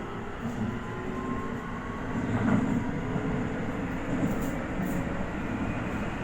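Toei Asakusa Line 5500 series electric train running, a steady rumble of wheels on rail with a faint motor tone and a few brief clicks, getting a little louder about two seconds in.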